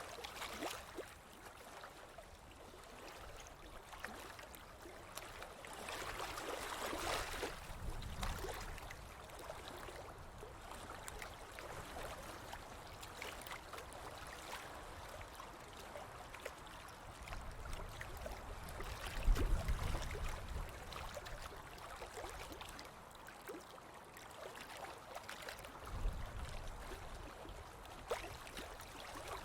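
Ocean surf washing on a beach: a steady wash of waves that swells about seven seconds in, with deeper rumbling surges around twenty and twenty-six seconds in.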